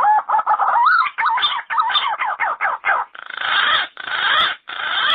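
Yellow-footed green pigeon calling: a fast run of wavering, warbling whistles, then three longer, harsher notes in the last two seconds.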